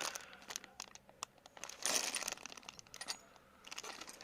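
Small items and packaging being handled: scattered light clicks and taps, with a short rustle of paper or plastic about two seconds in.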